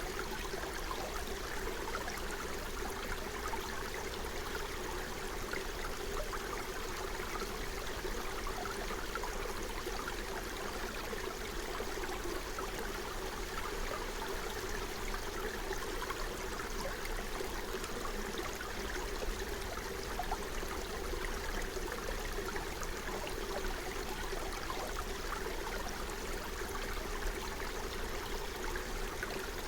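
Forest stream running and gurgling over stones, a steady, even rush of flowing water.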